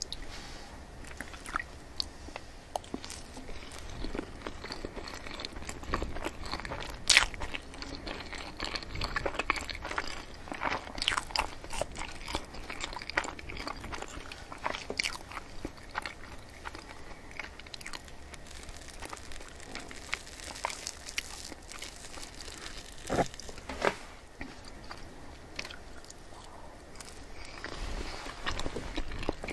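Close-miked chewing and mouth sounds of someone eating black sesame mille crepe cake with whipped cream: a run of short, wet clicks and smacks, with the loudest click about seven seconds in.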